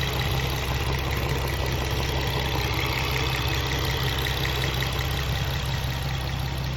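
Infiniti G35's 3.5-litre V6 idling steadily with a fast, regular ticking rattle over the engine hum. The rattle is one that an oil change has not cured, and its cause is unknown.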